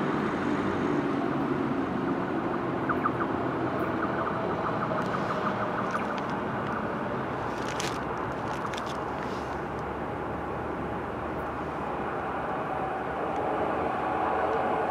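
NSB Class 73 electric multiple unit approaching along the line, a steady running noise that grows louder over the last few seconds as it nears.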